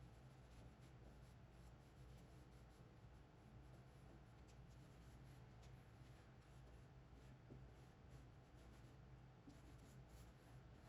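Near silence: faint scratching or rubbing over a steady low hum.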